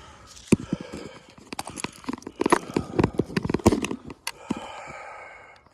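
Fireworks popping and crackling in a rapid, irregular run of sharp cracks, thickest in the middle. It eases off near the end, where a brief steady pitched sound comes in.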